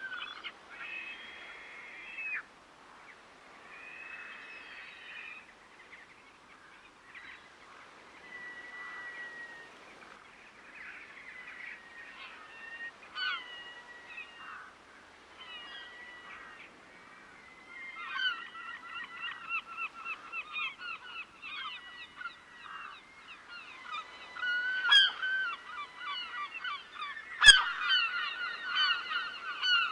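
Waterbirds calling: scattered honking calls at first, then a fast run of repeated harsh calls over the last ten seconds or so. Two sharp clicks break in near the end, the second the loudest sound.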